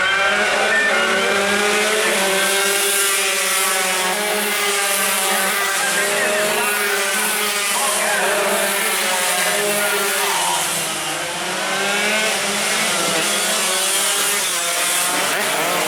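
Several two-stroke racing motorcycle engines revving up and down at once, their pitches overlapping and rising and falling.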